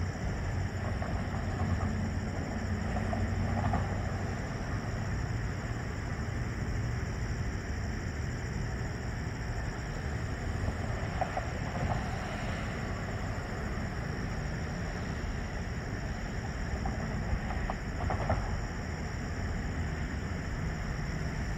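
Steady low rumble of a distant Great Lakes Central Railroad train, with a few faint ticks.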